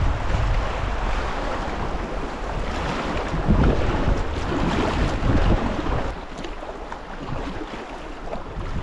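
Wind buffeting the microphone over the rush of moving river water. The low wind rumble drops away about six seconds in, leaving mostly the water.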